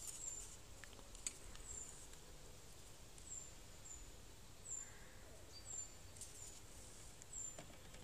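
Quiet outdoor background with a small bird repeating short, thin, high chirps that dip slightly in pitch, about one every second. A few faint clicks come from fingers handling small fishing tackle.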